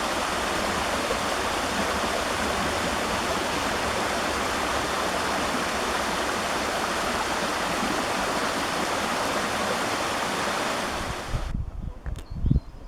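A waterfall's rushing water, a steady loud rush that cuts off suddenly about eleven and a half seconds in. A few low, irregular thumps and rumbles on the microphone follow near the end.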